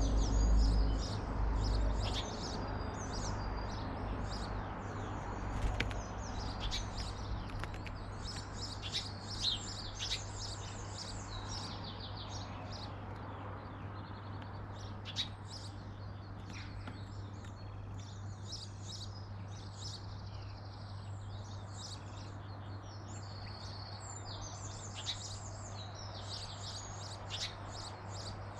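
Garden songbirds chirping and singing, many short high calls and trills overlapping, over a steady low hum.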